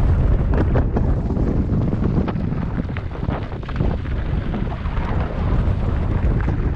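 Wind buffeting the microphone: a loud, uneven low rumble that swells and drops, with faint ticks scattered through it.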